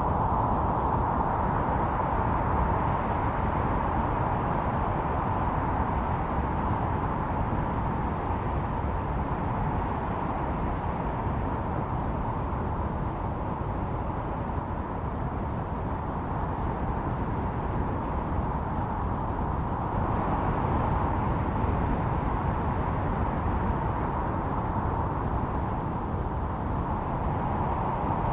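Snowstorm wind blowing steadily with a howl that swells and eases slowly. It is loudest at the start and again about twenty seconds in, with a lull in between.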